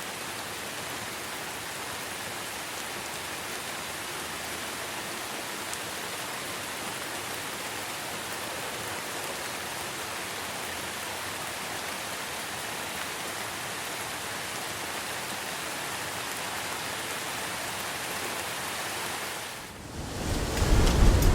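Steady rain, an even hiss of falling drops. Near the end it briefly drops away and gives way to louder rain with a deep rumble of thunder.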